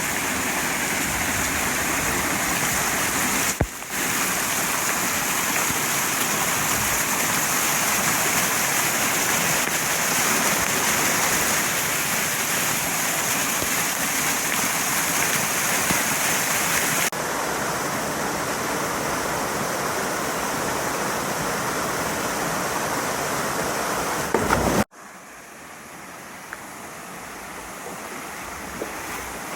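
Mountain stream rushing steadily over rocks. About 25 seconds in it cuts abruptly to a much quieter flow.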